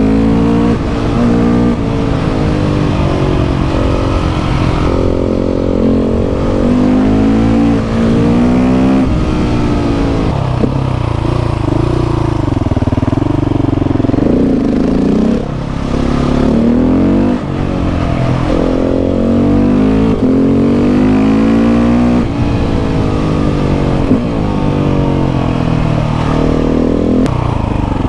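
KTM 690 SMC R's single-cylinder engine through a Leo Vince exhaust, accelerating hard and shifting up again and again, the pitch climbing and dropping back at each shift. Partway through it eases off to lower, wavering revs before pulling through the gears again.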